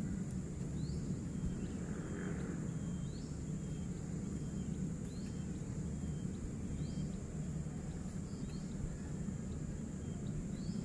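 Forest ambience: a steady high insect drone with a bird giving a short rising call about every two seconds, over a low steady rumble.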